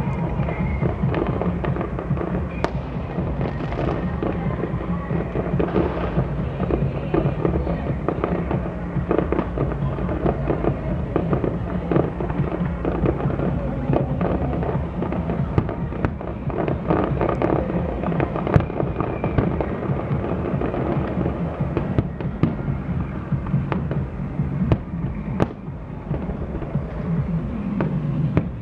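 Fireworks display going off in a dense, continuous run of bangs and crackling, with music playing underneath.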